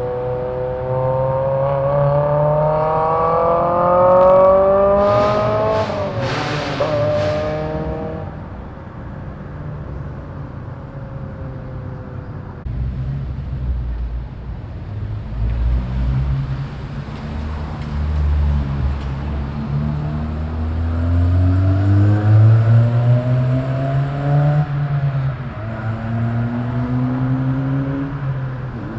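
Modified car engines with loud aftermarket exhausts revving and accelerating, the pitch climbing in several pulls. Sharp loud bursts break in about five to seven seconds in, and a deep low rumble comes through about midway.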